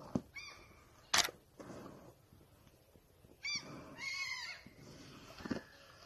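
Bird calls in the forest: short chirping calls about half a second in and again in a quick run around three and a half to four and a half seconds in. A single sharp click comes just after a second in and is the loudest sound. Soft low thuds, the brown bear's footsteps, come near the start and again near the end.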